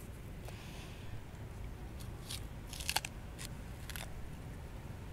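A person biting into and chewing a raw, peeled wavy-leafed soap plant bulb, with a few short crisp crunches starting about two seconds in, the loudest near the three-second mark.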